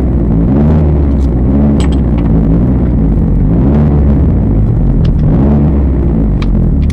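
Rally car's engine idling, heard from inside the cabin: a steady, loud low rumble that wavers slightly in pitch.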